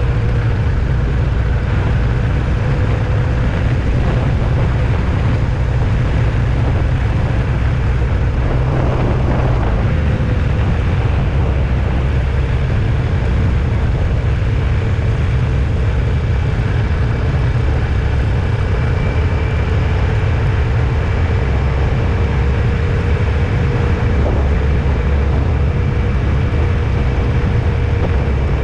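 Car driving on the road: a steady low rumble of engine and tyre noise, with a faint steady whine that drifts slightly in pitch.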